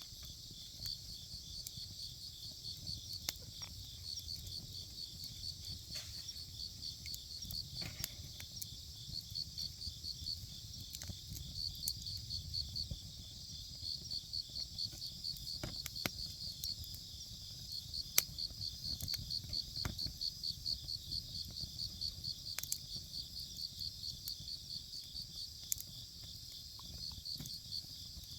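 Crickets chirping in steady rapid pulses, with scattered sharp crackles and pops from a wood campfire.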